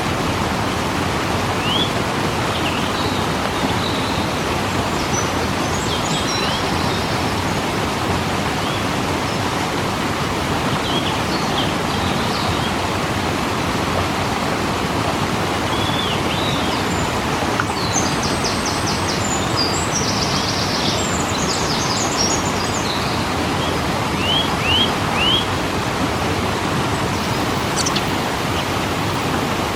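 Waterfall rushing steadily, with small birds chirping now and then over it and a quick rattling bird trill about two thirds of the way in.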